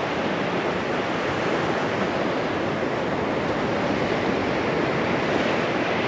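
Steady rush of ocean surf breaking on a sand beach.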